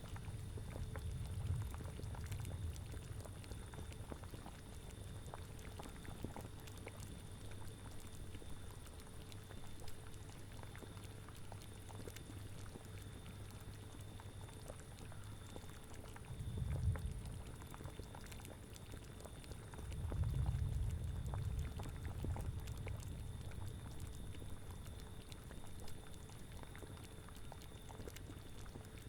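A cauldron bubbling at a steady boil, a constant patter of small pops. Low gusts of wind swell under it a few times, at the start, just past halfway and again a little later.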